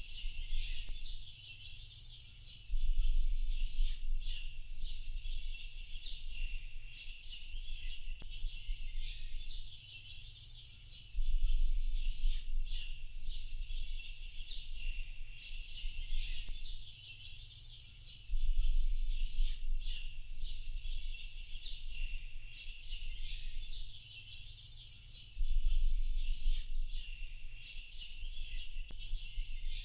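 A dense chorus of small birds chirping and twittering continuously in a high register. A deep low rumble swells in for a second or two roughly every seven seconds.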